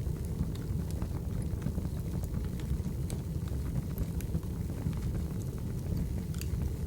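Firewood burning: a steady low rush of flames with irregular sharp crackles and pops.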